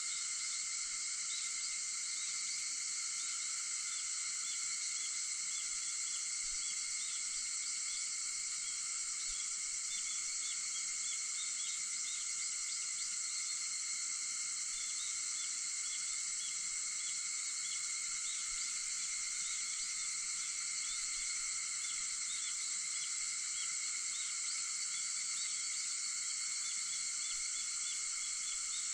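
A steady, unbroken chorus of cicadas singing in the early morning, overlaid with many faint short chirps.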